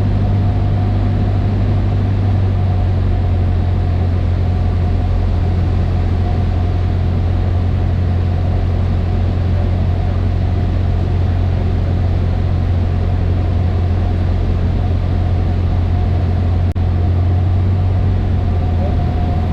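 Cessna 152's four-cylinder Lycoming engine and propeller running in a steady drone, with a thin steady whine above the low hum.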